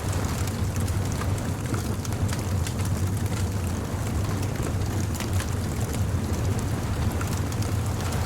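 Beach bonfire crackling, with many small scattered pops over a steady low rumble.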